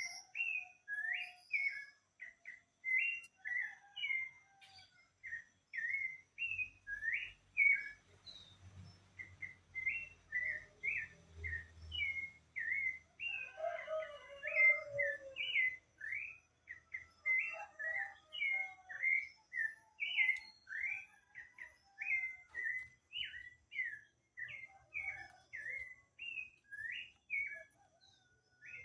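Bird song: short whistled notes that slide in pitch, given a few per second in quick runs with brief pauses.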